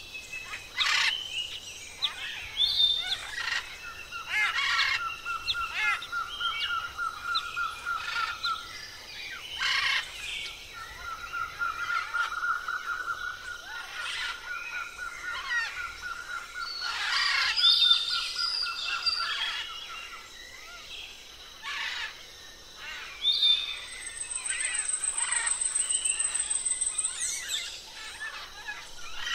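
Birdsong with several birds calling: two long, even trills, the second lasting several seconds, among sharp chirps, and a high, thin trill near the end.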